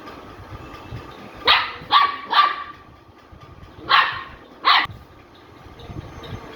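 A dog barking: five sharp barks, three in quick succession and then two more about a second and a half later.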